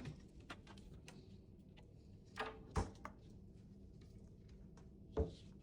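A few faint clicks and knocks of cabin cabinetry being handled, doors and drawers opened and shut: a couple of knocks just before the middle and one more near the end.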